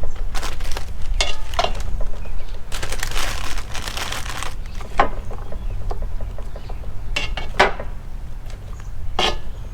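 Food being mixed in a cast-iron Dutch oven: scattered knocks and scrapes against the pot, with a stretch of rustling about three seconds in, over a steady low rumble.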